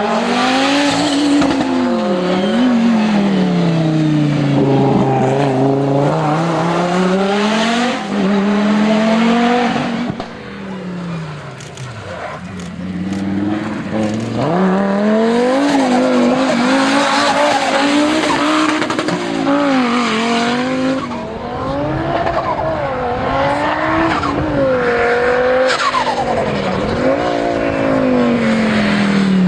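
Audi Sport Quattro S1 Pikes Peak rally car's turbocharged five-cylinder engine revving hard. Its pitch climbs and drops again and again through gear changes and lifts of the throttle, with a quieter, lower stretch about eleven seconds in.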